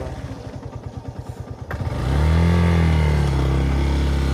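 Yamaha FZ V2.0's single-cylinder engine idling with an even putter. A click comes about a second and a half in, then the engine revs up and runs on at a steady higher speed.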